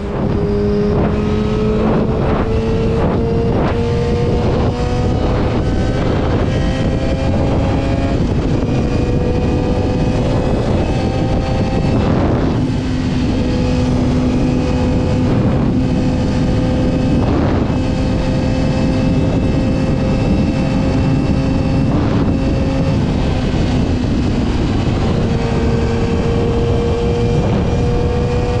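Motorcycle engine running under way at cruise with wind and road noise: its pitch climbs slowly over the first several seconds as the bike gathers speed, then holds steady. A run of regular knocks is heard over the first several seconds.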